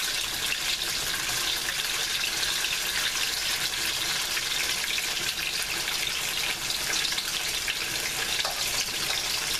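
Tofu cubes sizzling steadily in a deep layer of hot oil in a stainless steel pot as they are turned over with a metal utensil. The oil is too much for the tofu, which is sticking to the pan and falling apart.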